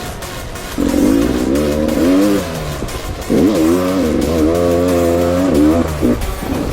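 Beta 300 RR two-stroke dirt bike engine revving on and off the throttle. It gives two long pulls, one about a second in and another from about three seconds in, its pitch rising and falling with the throttle.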